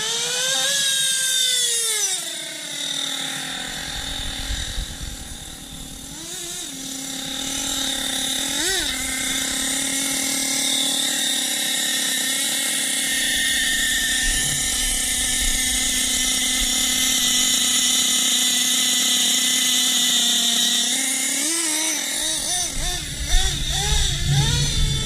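Nitro RC buggy's small two-stroke glow engine running at a high-pitched idle. It is revved up and back down at the start, blipped twice, and given a quick run of throttle blips near the end.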